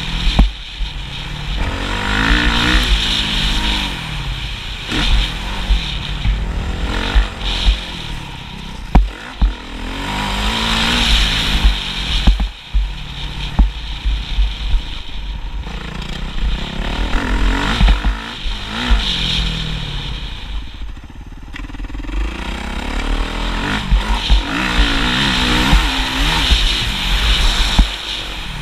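Motocross motorcycle engine being ridden hard, revving up and dropping back again and again through gear changes and corners. Heavy wind rumble runs under it, with a few sharp knocks.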